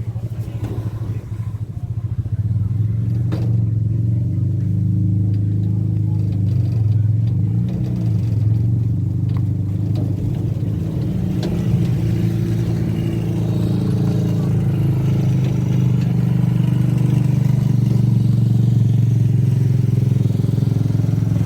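Engine of a road-going fun-train ride vehicle running, a steady low drone that gets louder about two seconds in.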